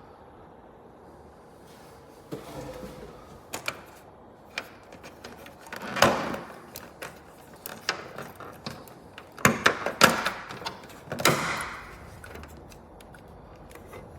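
Handling noises: scattered clicks and knocks, with short louder swishes about six seconds in and again around ten to eleven seconds in.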